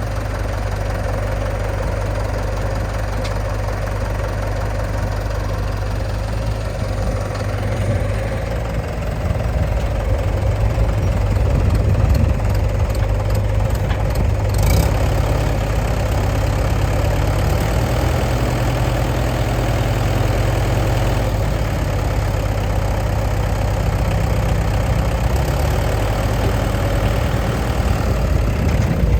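Diesel engines of earthmoving machinery running steadily at a low, even pitch. They grow louder about nine seconds in and stay at the higher level, with a short scrape or clatter about halfway through.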